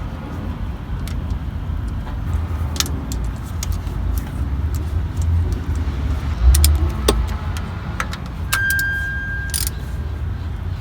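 Scattered metallic clicks and clinks of hand tools and bolts as a distributor is fastened to the engine, over a steady low rumble. About eight and a half seconds in there is a brief, steady high-pitched tone.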